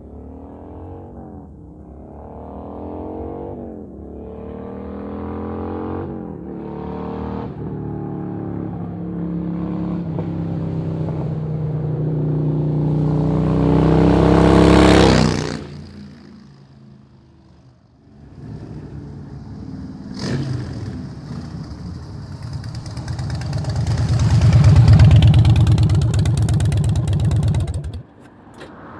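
Harley-Davidson Road Glide's 103 cubic inch V-twin running through a customized aftermarket exhaust, accelerating hard up through the gears with its pitch rising, loudest about 14 seconds in before dropping away suddenly. A second run builds to a peak and cuts off near the end.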